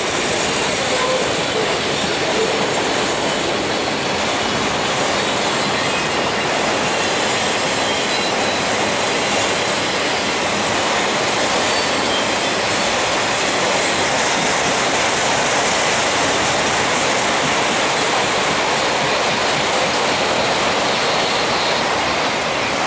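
Empty autorack freight cars rolling past: a steady noise of steel wheels on the rails that stays even throughout.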